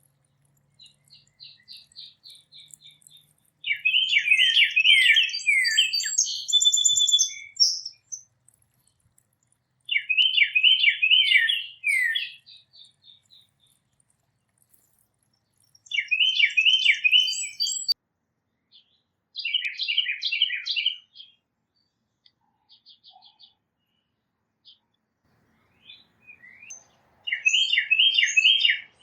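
A songbird singing the same short trilled song phrase five times, each about two seconds of quick repeated notes, with fainter call notes between.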